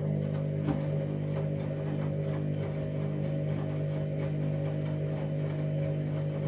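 Candy washing machine running with a steady, even mechanical hum and faint light ticking over it.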